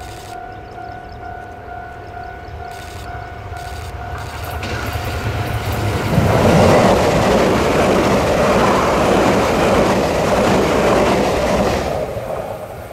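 A Tze-Chiang express electric train passes at speed over a level crossing. Its noise builds from about four seconds in, is loudest for roughly six seconds, then fades near the end. A steady electronic tone from the crossing warning signal sounds at the start and again as the train fades.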